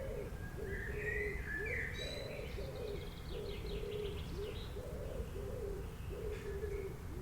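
Birds calling: a low call repeats about once a second throughout, with higher chirps and a fast trill from a second bird in the first half.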